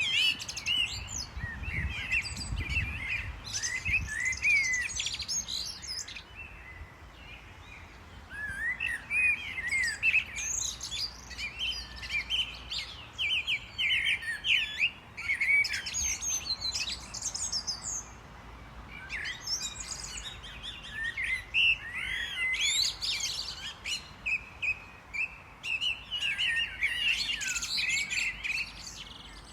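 Small birds chirping and twittering in bouts, many short high calls overlapping, with brief lulls between bursts.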